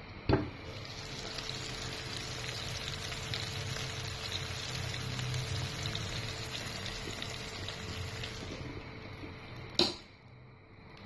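Marinated pork chops and vegetables frying in a pan: a steady crackling sizzle that stops suddenly near the end. A sharp click comes just after the start and another as the sizzling cuts off.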